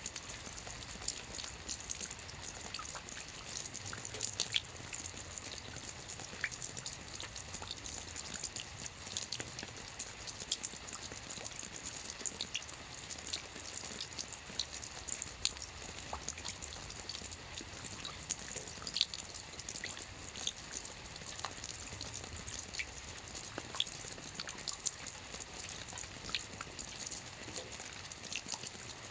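Steady rain with many individual drops ticking sharply against a surface at irregular intervals.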